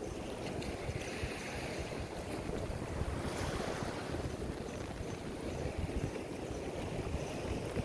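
Surf washing onto a sandy beach, with wind buffeting the microphone; the wash swells about three seconds in.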